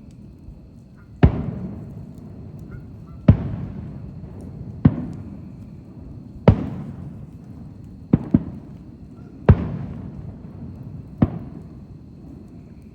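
Fireworks going off: about eight sharp bangs a second or two apart, each trailing off in a rumbling echo, with two in quick succession about eight seconds in.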